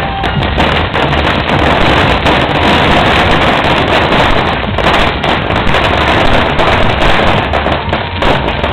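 Firecrackers going off in a dense, continuous crackle of rapid bangs, thickest in the middle.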